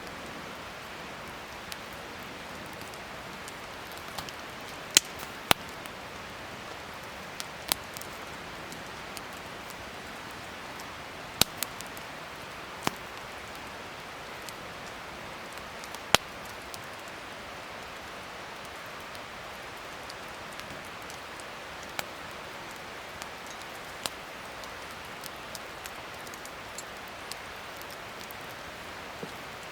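Wood fire burning with a steady hiss and irregular sharp crackles and pops, a few of them loud.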